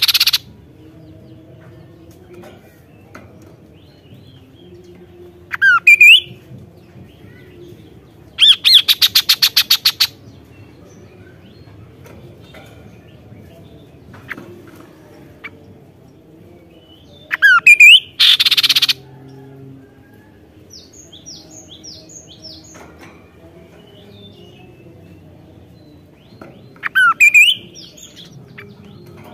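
Kaso-kaso bird calling in loud separate bursts. It gives short sweeping call phrases several times, a fast rattling trill about nine seconds in, and a harsh hissing burst a little past halfway, with quiet gaps between.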